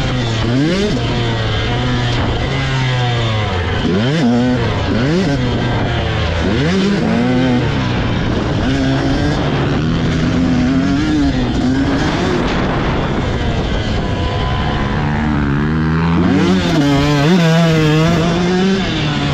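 Motocross dirt bike engines running hard, revving up and dropping back again and again as the rider shifts and works the throttle around the track.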